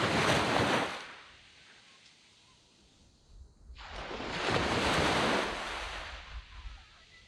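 Waves breaking and washing up a sand beach, twice: one wash at the start that fades over about two seconds, then a second wave building about three and a half seconds in, swelling and draining away.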